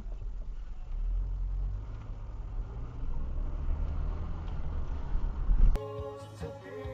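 Steady low rumble of a car driving, engine and road noise heard from inside the car. Near the end it cuts off abruptly and music starts.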